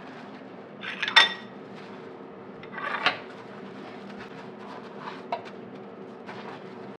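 Dishes and cutlery clinking and clattering, with two louder clatters about one and three seconds in and a lighter tap later, over a steady low hum.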